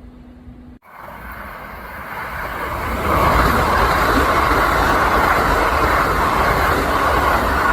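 Kintetsu electric train passing at speed: after a brief cut under a second in, the rush of wheels on rail builds over about two seconds and then holds loud and steady.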